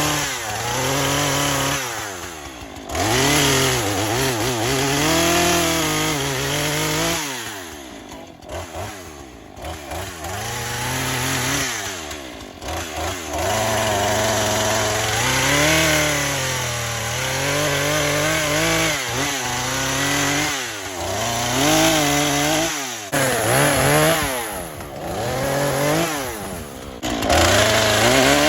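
Two-stroke Husqvarna chainsaw bucking oak and pine logs. The engine revs up into each cut and drops back toward idle several times, its pitch rising and falling throughout.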